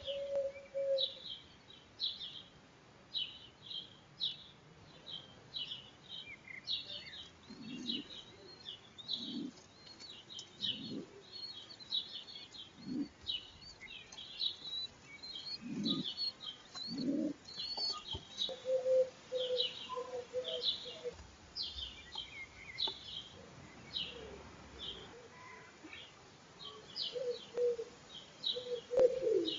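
Small birds chirping in short, high notes throughout, with a wood pigeon's low cooing phrase about two-thirds of the way through and again near the end.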